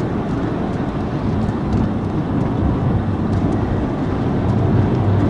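Police cruiser driving at highway speed: steady engine and road noise heard inside the cabin.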